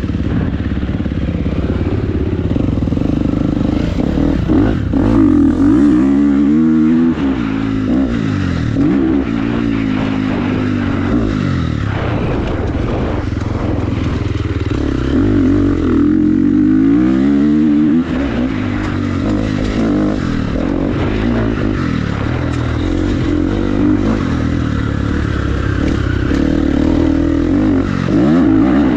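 Motocross bike engine being ridden hard, revving up and down, its pitch climbing in long sweeps and dropping sharply between them as the throttle is opened and shut.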